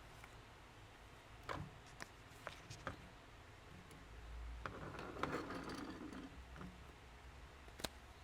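Scattered light taps and clicks of paper and craft supplies being handled, with soft paper rustling about halfway through.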